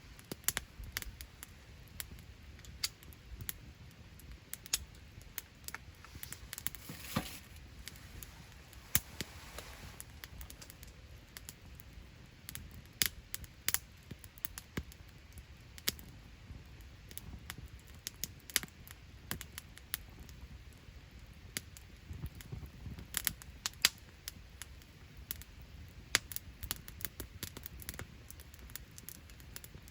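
Wood campfire crackling, with irregular sharp pops and snaps, a few much louder than the rest.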